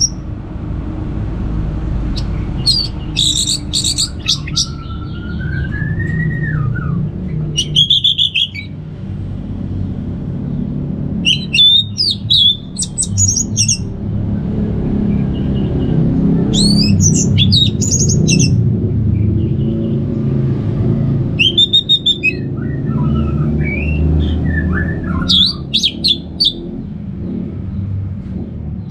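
Orange-headed thrush singing: short, loud bursts of rapid, high twittering phrases repeated about every four seconds, with a few fainter, lower sliding whistles between them, over a steady low rumble of background noise.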